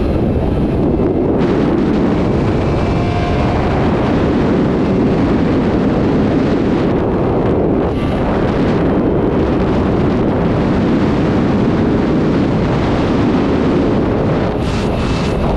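Sport motorcycle at speed: steady wind rush on the microphone with the engine running underneath.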